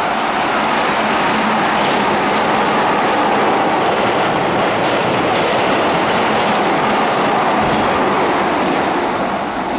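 Keihan 8000 series limited express train running through a station at speed without stopping: a steady, loud rush of wheels on rails as the cars pass close by.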